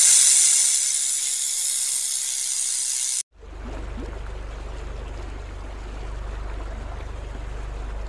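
Rattlesnake making a loud, steady high hissing buzz that cuts off abruptly about three seconds in. A quieter low steady hum with faint water noise follows.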